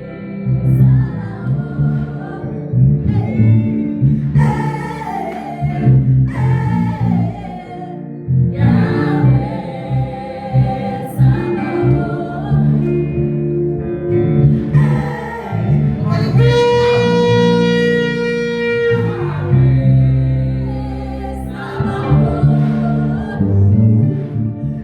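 Live gospel worship music: voices singing over instruments and a steady bass, with a long held note in the middle.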